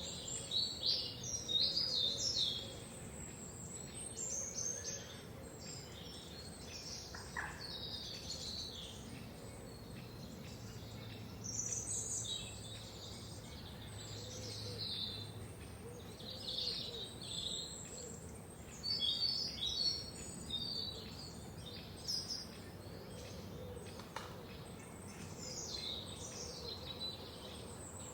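Several songbirds singing and chirping, with short high trills and chirps overlapping throughout, over a faint steady background hiss.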